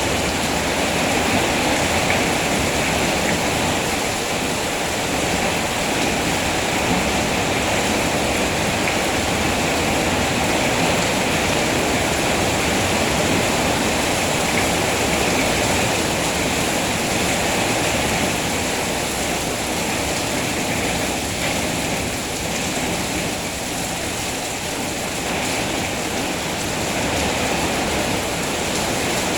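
Steady heavy rain, a dense even hiss of falling water.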